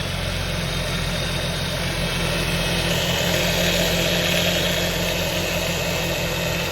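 Car engine idling steadily on its first run after several days of repair work, turning smoothly with no sign of trouble.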